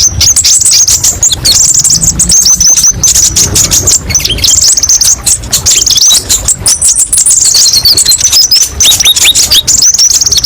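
Sunbird (kolibri ninja) singing a fast, unbroken song of high twittering trills and chirps, with quick downward-sweeping notes.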